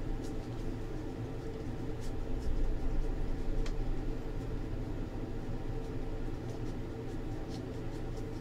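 Steady low hum of room noise, with a few faint, light clicks and rustles of trading cards being flipped through by hand.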